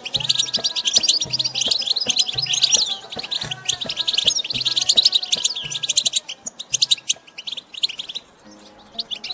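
European goldfinch twittering in fast, tinkling chattering runs, the call breeders call batbata. The chatter thins out near the end and starts up again just before it stops, over background music.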